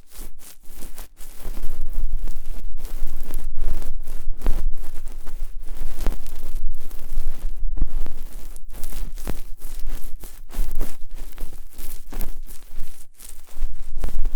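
Close, loud ASMR ear-cleaning sounds: a tool scraping and rubbing against a microphone in quick, irregular strokes, with a low handling rumble underneath.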